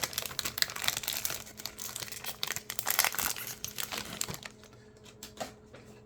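Foil wrapper of a Topps basketball card pack being torn open and crinkled. The dense crackling lasts about four and a half seconds, then fades to a few faint rustles.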